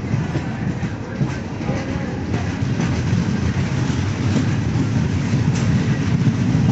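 Alappuzha–Dhanbad Express passenger train running on the track: a steady rumble of the coaches with faint clicks of the wheels, growing a little louder toward the end.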